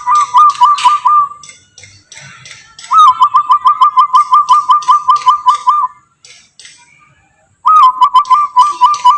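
A man whistling an imitation of a bird call: three bouts of quick, same-pitched whistled notes, about six a second, each bout a few seconds long with a short pause between, accompanied by light clicking.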